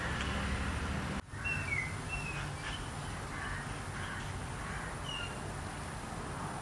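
Outdoor ambience: a handful of short, high bird chirps, clustered a second or two in and once more near the end, over a steady low rumble. The sound drops out briefly just before the first chirps.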